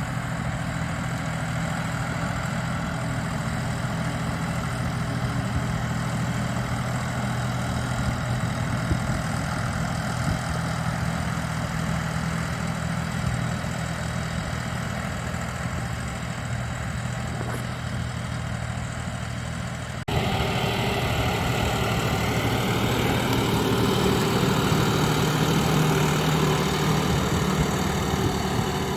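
John Deere 5405 tractor's common-rail diesel engine running steadily. About twenty seconds in the sound cuts abruptly to a louder take with a somewhat different engine tone.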